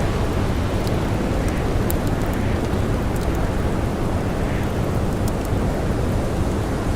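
Steady, heavy blizzard wind with blowing snow, a deep, unbroken rush, with the light, scattered snaps of a crackling campfire over it.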